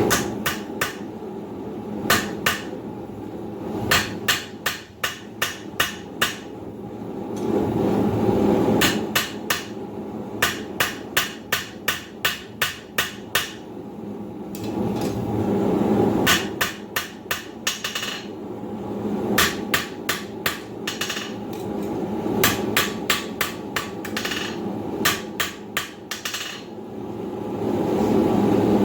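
Blacksmith's hammer striking hot steel bar stock on an anvil in quick runs of blows, several a second, with short pauses between runs, while the steel is squared up and drawn out. A steady low roar runs underneath and swells at times.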